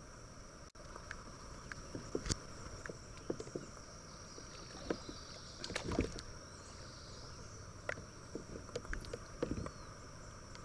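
Sit-on-top kayak on a small stream: scattered knocks and small splashes on the water and hull, over a steady high-pitched drone.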